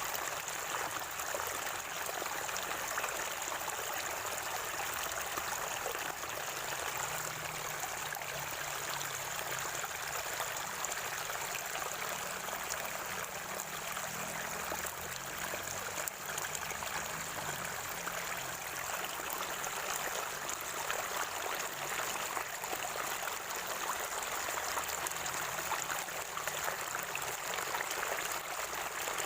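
Water of a natural spring gurgling and trickling steadily.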